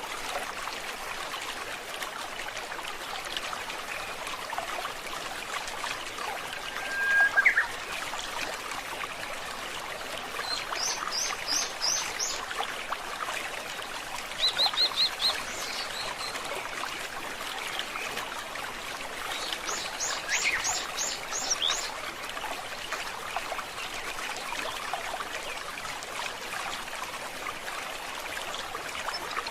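Stream water trickling and babbling steadily, with birds singing over it: a short call about seven seconds in, then three bursts of rapid high-pitched repeated notes, around a third of the way through, near the middle, and about two thirds through.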